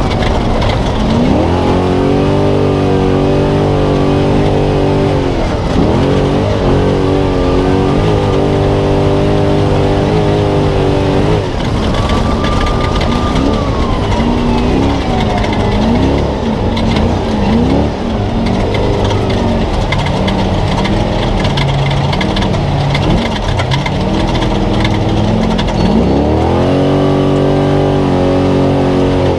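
Spec Trophy Truck V8 heard from onboard, held at high revs with a short drop about five seconds in. Through the middle the revs rise and fall rapidly again and again as the throttle is worked, then climb and hold steady near the end, over a constant rush of tyre and wind noise.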